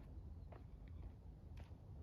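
A hiker's footsteps on a trail, a couple of short steps about a second apart, over a low steady rumble.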